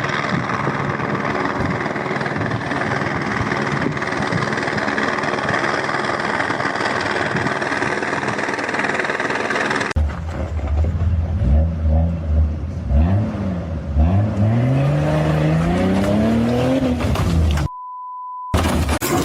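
A steady mechanical running noise, then after a sudden change an engine revving up several times, its pitch rising in sweeps over a low steady hum. It ends with a short, pure electronic beep.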